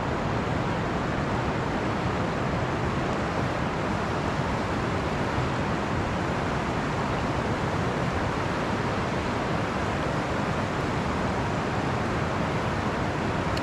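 A river rushing over rocks, a steady, even noise that does not change.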